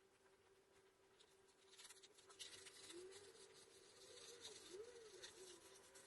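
Faint scratching over a steady hum; from about two seconds in the scratching grows and the hum's pitch wavers up and down.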